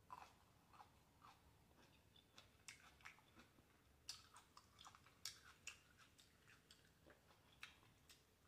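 Faint close-up chewing of red grapes: irregular wet mouth clicks and smacks, thickest about halfway through.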